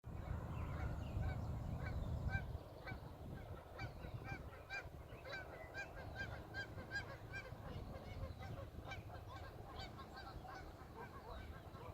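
A flock of geese honking, many short calls overlapping several times a second, over a low rumble that is loudest in the first two seconds.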